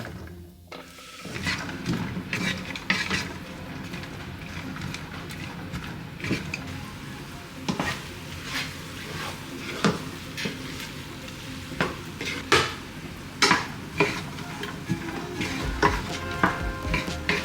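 Food sizzling in a frying pan while it is stirred, starting about a second in, with the spoon scraping and knocking against the pan at irregular intervals.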